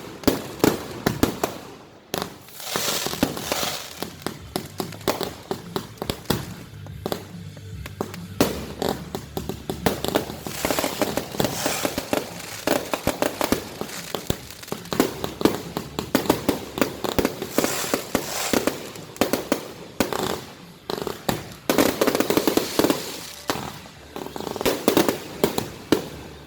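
Fireworks display: a dense, continuous run of bangs and crackling, with brief lulls a few times.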